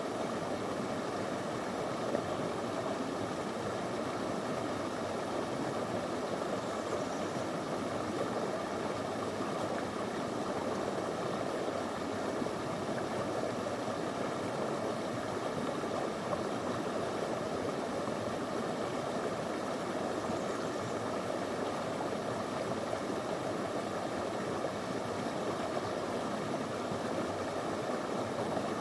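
Small stream flowing over stones: a steady, unbroken rush of running water.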